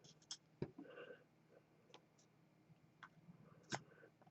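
Near silence: room tone with a few faint, sharp clicks, the loudest about three and three-quarter seconds in.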